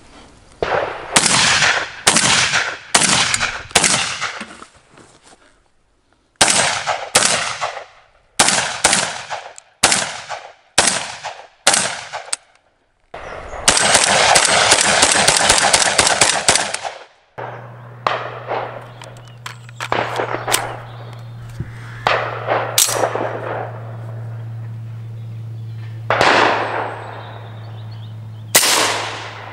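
Gunfire: strings of quick shots about half a second apart, a dense run of rapid shots past the middle, then a few single shots with long fading echoes. A steady low hum runs under the last part.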